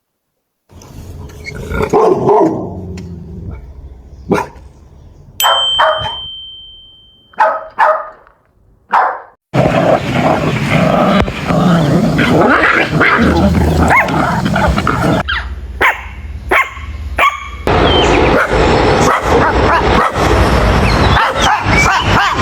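Dogs barking and yipping in short, abruptly cut snippets: a few separate barks in the first half, then a busier, unbroken stretch of barking and yips.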